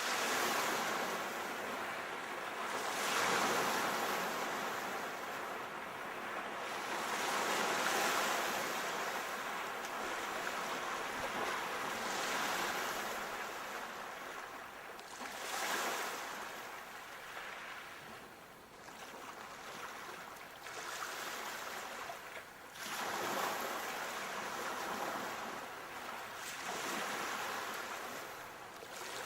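Sea waves breaking and washing up the shore, the surf swelling and falling back in surges a few seconds apart.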